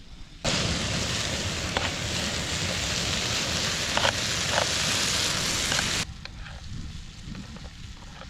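Chicken hearts with onion and garlic sizzling in a frying pan on a camp stove, a loud steady sizzle with a few sharp pops. It starts suddenly about half a second in and cuts off about six seconds in, leaving a much quieter background.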